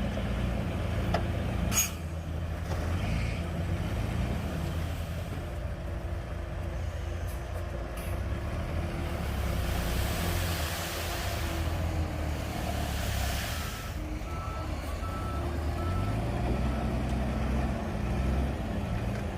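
Bulldozer's diesel engine running steadily under load, its pitch rising and falling now and then, with a hiss about halfway through. A reversing alarm beeps in a steady series over the last five seconds.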